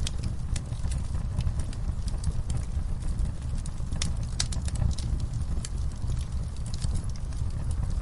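Wood fire crackling: irregular sharp snaps and pops over a steady low rumble of the flames.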